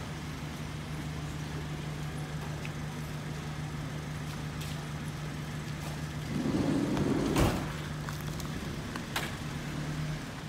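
VinFast Lux A2.0 sedan's 2.0-litre turbocharged four-cylinder idling with a steady, smooth and quiet hum. A short louder rush comes about six and a half seconds in, and a couple of sharp clicks follow.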